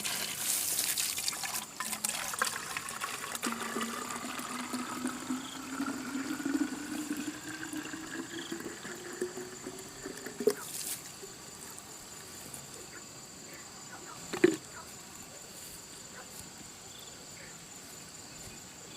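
Water pouring and trickling, with a tone that rises slowly over several seconds before it stops, then two sharp knocks.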